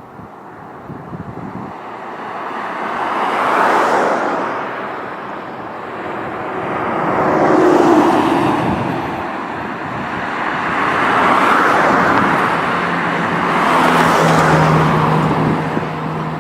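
Road traffic: four vehicles passing one after another, each swelling and fading over a few seconds. A steady low hum comes in after about twelve seconds.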